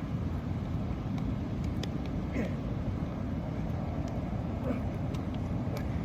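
Steady low outdoor rumble, with a few faint clicks and short high chirps scattered through it.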